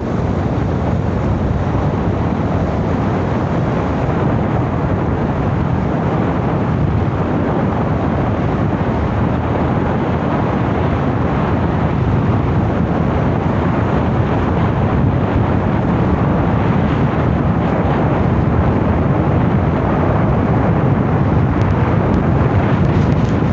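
Motorcycle on the move: a loud, steady rush of engine and road noise, with wind buffeting the microphone.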